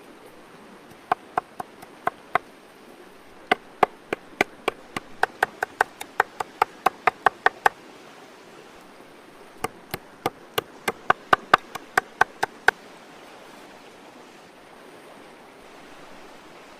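Knife chopping on a cutting board: a few separate strokes, then two quick runs of about three to four sharp chops a second, with a pause between them.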